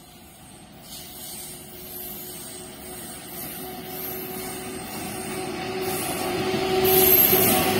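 Indian Railways electric locomotive-hauled train approaching on the track, its noise building steadily louder, with a steady hum under the growing rumble and hiss.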